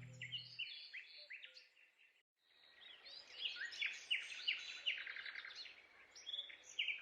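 Small songbirds chirping and twittering in quick, short notes, with a short break about two seconds in. The last of a song's music fades out at the very start.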